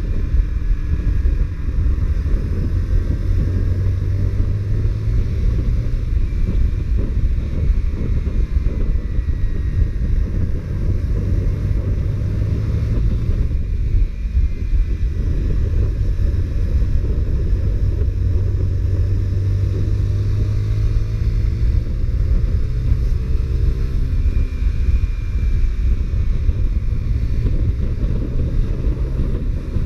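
Honda CBR125R's single-cylinder four-stroke engine on its stock exhaust, running under way with its pitch drifting up and down with the throttle, under heavy wind noise on the microphone.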